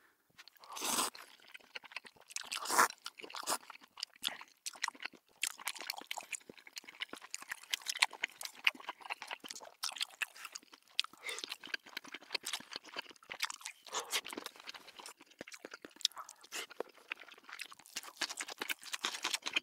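Close-miked mukbang eating: wet chewing and lip smacking with a dense run of quick crackling clicks as sausages, fish cake and kimbap from a spicy broth are eaten. Two louder bites come about one and three seconds in.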